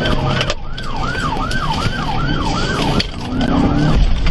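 Police patrol car siren on a fast yelp, sweeping up and down about three times a second, over the car's engine and road noise. The siren briefly fades twice.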